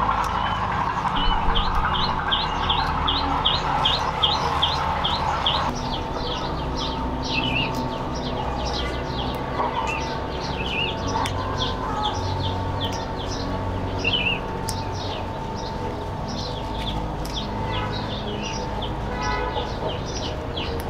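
Small birds chirping: a quick run of short, high chirps, about three a second, for the first few seconds, then scattered chirps and calls, over steady low background noise.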